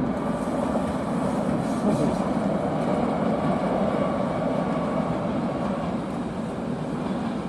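A train moving along the track, a steady rumble with a faint thin whine above it.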